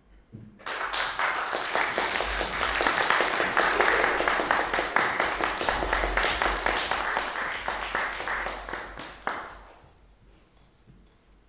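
Audience applauding, starting abruptly under a second in and dying away after about nine seconds.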